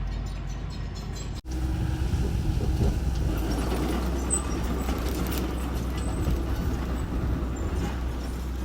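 Diesel engine of a small construction machine running steadily with a low rumble. It breaks off for an instant about a second and a half in, then comes back louder.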